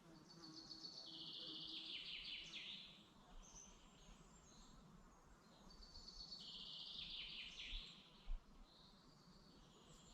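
A songbird singing two phrases about five seconds apart, each a fast trill that steps down in pitch and ends in a few downward sweeps. A short low thump comes near the end.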